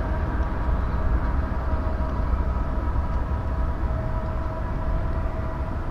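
A long freight train rolling past: a steady low rumble with faint steady tones above it.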